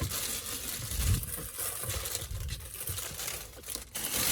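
Plastic packaging crinkling and rustling as it is handled, with soft low knocks from handling the product.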